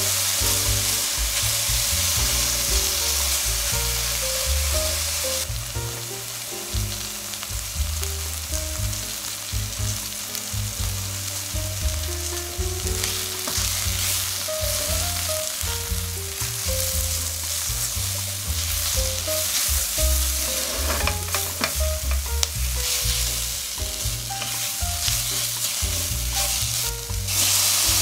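Sliced red onion sizzling in hot olive oil in a stainless steel sauté pan, stirred with a spatula, over quiet background music.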